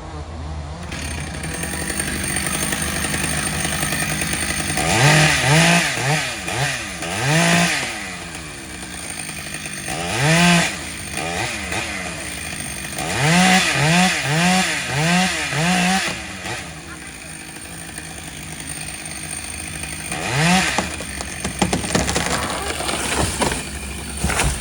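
Chainsaw engine running, revved up in short bursts about a dozen times, in clusters, with the engine dropping back to a steady idle in between.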